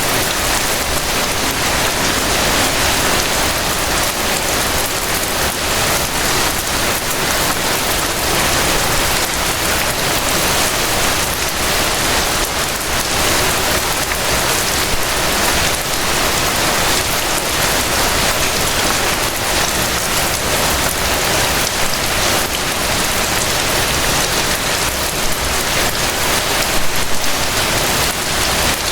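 Steady rain falling, an even hiss of dense drops with a fine patter.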